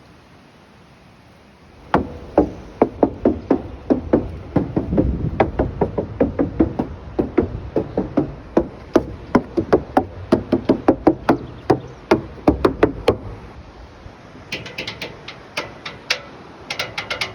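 A steady run of sharp knocks, about three a second, with low thumps underneath; a brighter clicking layer joins near the end.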